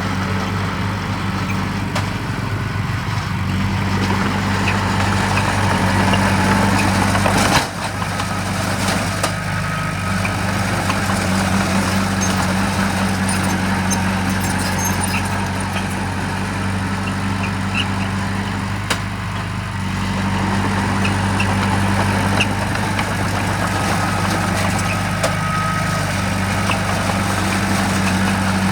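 Heavy diesel engine of earthmoving machinery running steadily, its pitch shifting slightly up and down, with a sharp click and brief dip about seven and a half seconds in.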